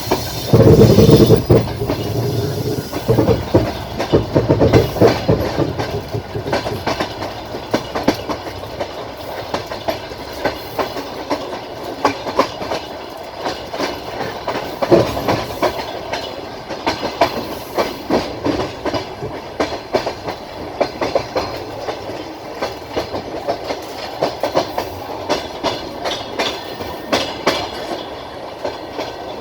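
Passenger train wheels clattering over rail joints, heard from a carriage window, with a continuous rolling rumble under the clicks. A brief louder rush comes about a second in.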